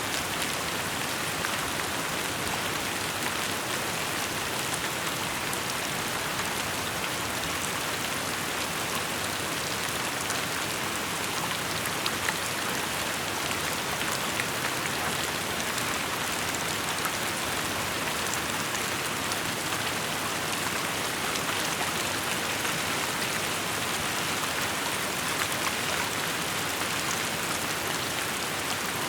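Steady rainfall, a dense even hiss of drops pattering on surfaces, with occasional sharper individual drop ticks.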